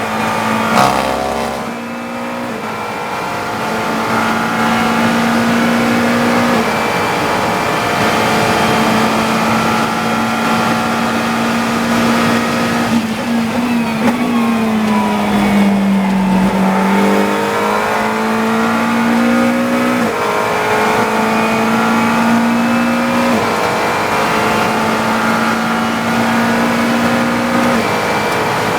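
GT3 race car's engine heard from inside the cockpit, running hard at a steady high pitch, with short breaks at gear changes. About halfway through the pitch drops and climbs back as the car slows for a corner and accelerates away.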